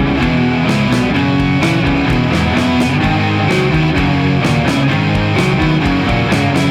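Instrumental break of a rock song: guitar over a steady drum beat, with no singing.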